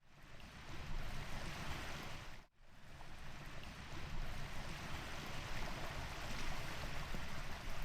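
Ocean waves washing on a beach: a steady rush of surf. It fades in at the start and cuts out for a moment about two and a half seconds in.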